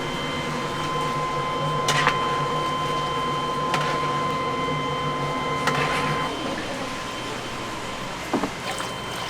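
A machine hums steadily with a fixed whine, which cuts off about six seconds in; a few sharp clacks sound over it, about two, four, six and eight seconds in.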